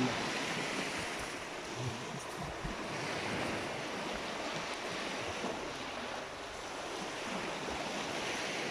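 Sea waves washing on the shore, a steady rushing that swells and eases gently, with some wind on the microphone.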